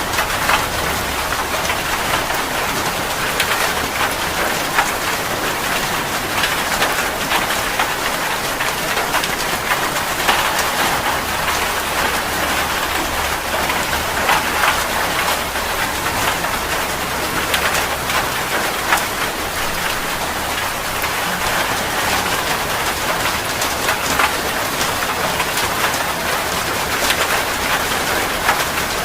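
Heavy rain falling steadily, a dense hiss with many individual drops ticking on a hard surface.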